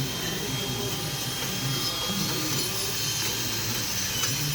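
A power tool running steadily, a continuous whir with a thin high whine, during work on the brakes.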